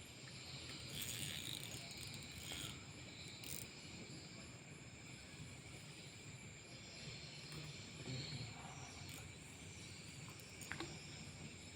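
Steady chorus of night insects, crickets among them, with a few faint clicks and rustles.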